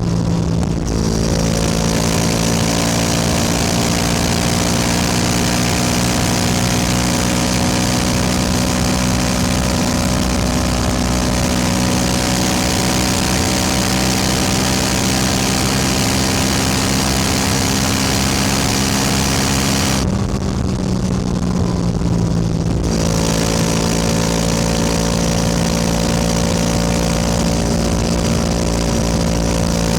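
Yamaha R7's parallel-twin engine running at a steady, slowly drifting speed under way, with wind and road hiss over it. About twenty seconds in the hiss falls away for a few seconds while the engine note dips, then both pick back up.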